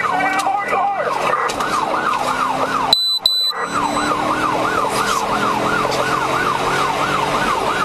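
Police car siren wailing in a fast yelp, rising and falling about three times a second. About three seconds in, the siren cuts out for a moment under two short high beeps.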